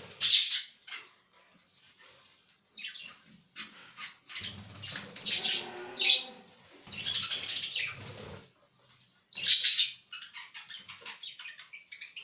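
Budgerigars flapping their wings in several short bursts, with budgie chirping in between.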